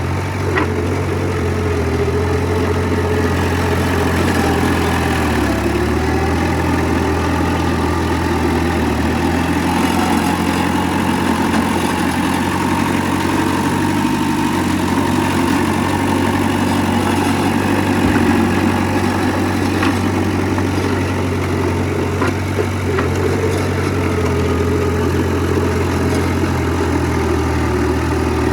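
Heavy earthmoving machine's diesel engine running steadily at a constant low pitch, with a few light knocks.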